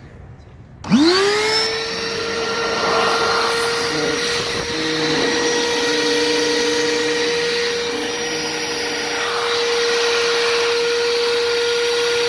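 Electric air pump inflating a life raft. Its motor spins up with a quick rising whine about a second in, then runs at a steady pitch.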